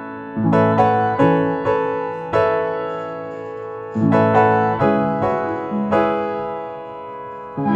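Piano music: chords struck and left to ring out, each dying away before the next group of notes.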